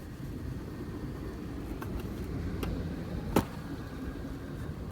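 A swarm of honey bees humming steadily, with a few light taps and then one sharp knock about three and a half seconds in. The knock is the box being smacked to drop the remaining bees into the hive.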